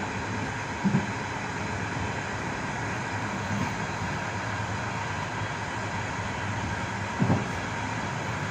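Steady wheel-on-rail rolling noise heard from inside the last carriage of a moving passenger train, with a brief double knock about a second in and again near the end as the wheels cross rail joints.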